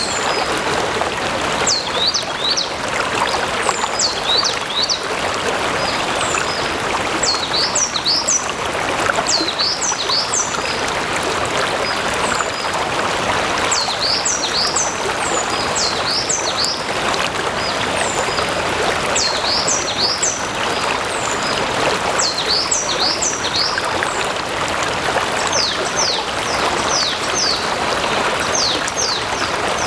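Stream water flowing and splashing steadily. Above it a small songbird sings clusters of short, quickly falling high notes, repeated every few seconds.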